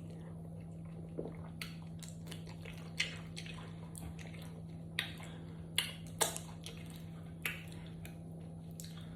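A person chewing food close to the microphone, with about eight separate wet mouth smacks and clicks spread through, over a steady low hum.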